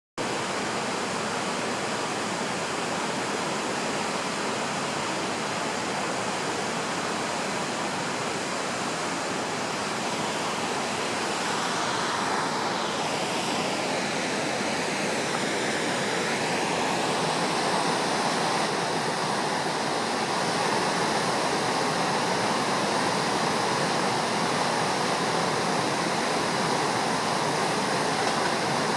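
Steady rush of a flood-swollen river running high and muddy after a typhoon, with a faint sweeping tone in the middle and the noise growing slowly louder near the end.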